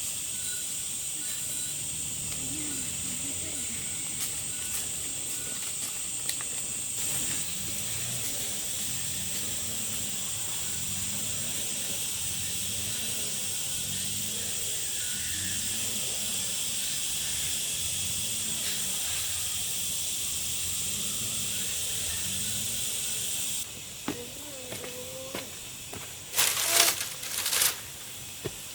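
A steady high-pitched hiss with a faint whine in it. It cuts off suddenly about 24 seconds in, and a few sharp knocks follow near the end.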